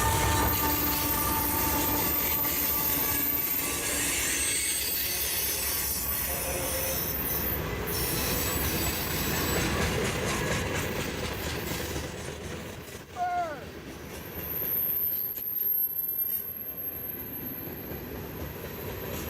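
Freight train cars rolling past, with steel wheels squealing on the rail over a continuous clatter of the cars. A short falling squeal comes about thirteen seconds in, and the rolling noise eases somewhat after it.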